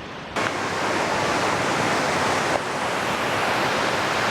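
Steady rush of cascading creek water that cuts in abruptly about half a second in.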